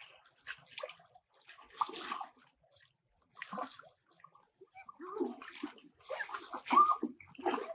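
Water sloshing and splashing in several irregular bursts, the loudest near the end.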